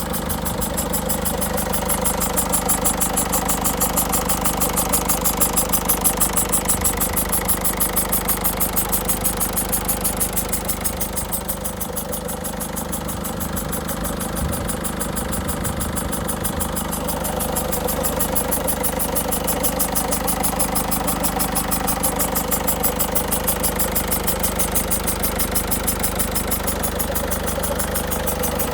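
2006 Peugeot 307's 1.6 HDi diesel engine idling steadily with a hissing noise that pulses rapidly and evenly in the treble. The owner believes the hiss comes from the injectors.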